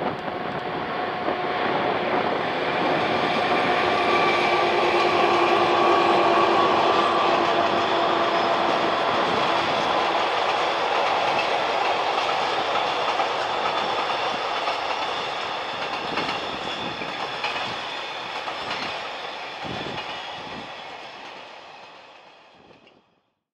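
A pair of ZSSK Cargo class 736 diesel locomotives passing at the head of a freight train, their engines giving a steady pitched hum over the rolling noise in the first several seconds. The wagons follow, wheels clicking over the rail joints. The sound fades over the last few seconds and cuts off suddenly.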